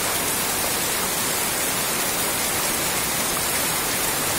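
Heavy rain pouring down, a steady, even hiss with no breaks.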